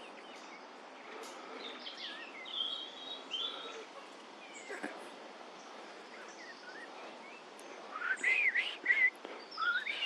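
Blackbird singing soft, subdued subsong phrases, faint against outdoor background hiss. From about eight seconds in, louder whistled phrases follow: a person's whistled imitation of the blackbird's song.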